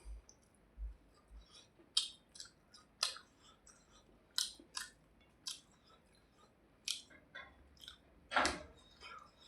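A person chewing food with the mouth close to the microphone: a string of short wet clicks and smacks at irregular intervals, with one longer, louder mouth sound near the end.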